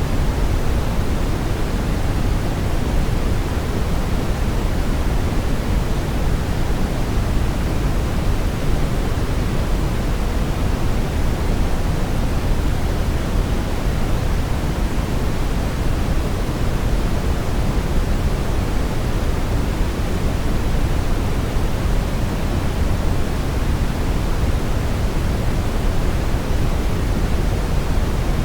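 Steady synthetic brown noise: an even, deep rushing hiss with most of its weight in the bass, unchanging throughout.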